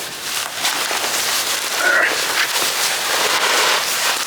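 Heavy stone slab scraping and grinding over gritty soil and stone as it is shifted into place, with dense crackling scrapes throughout.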